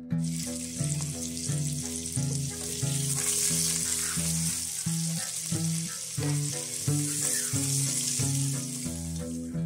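Green chillies, mint and coriander leaves sizzling steadily with whole spices in hot ghee in a pot, stirred with a wooden spatula. Background music with a run of plucked notes plays underneath.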